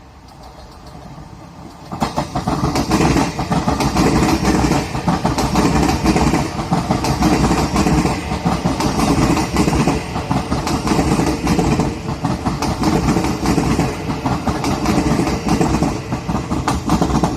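A Taiwan Railway train passing close by at speed, loud from about two seconds in, with a dense rapid clatter of wheels on the track.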